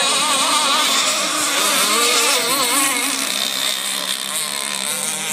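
Racing boat engine running hard at high pitch, its tone wavering up and down over a constant rush of noise.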